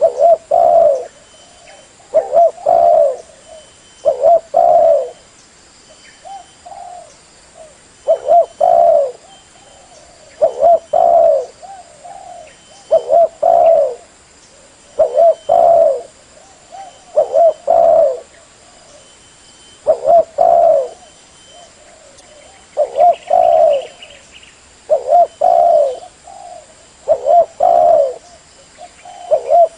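Spotted dove (terkukur) cooing in repeated short phrases of a few notes, one about every two seconds.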